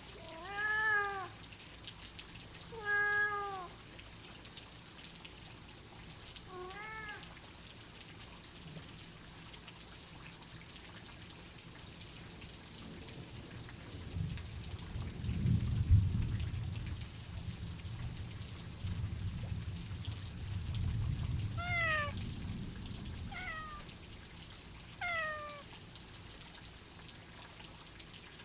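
Steady rain with a domestic cat meowing: three meows in the first seven seconds, then three short, falling meows near the end. In between, a low rolling rumble of thunder swells up about halfway through and fades over several seconds.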